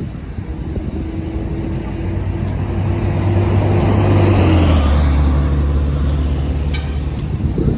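A motor vehicle's engine driving past close by: it grows louder, and its hum drops in pitch about halfway through as it goes past, then fades a little.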